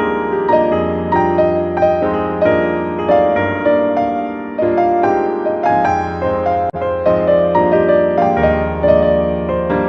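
Background piano music, soft and melodic, with notes struck at a steady, even pace.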